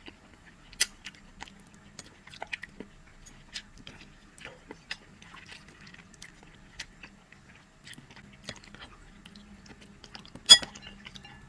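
A person chewing and biting food close to the microphone: scattered short, sharp mouth clicks, with one much louder click about ten and a half seconds in.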